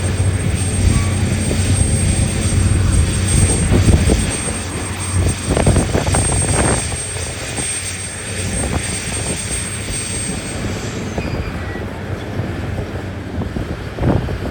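Heavy diesel engines of mining machinery running with a steady low drone, with a burst of rattling and clattering about five to seven seconds in.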